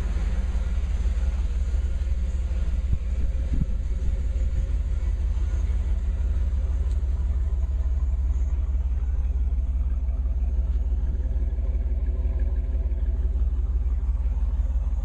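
1992 Pontiac Firebird Trans Am's V8 engine idling, a steady deep rumble with a few light clicks about three seconds in.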